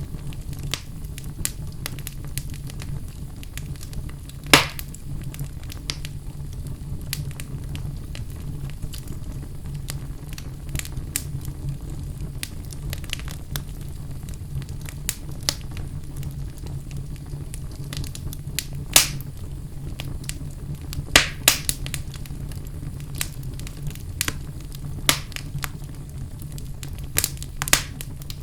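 Wood fire burning in a fireplace: a steady low rumble of the flames with scattered crackles and sharp pops, the loudest pops about four and a half seconds in, around nineteen seconds, twice near twenty-one seconds and near the end.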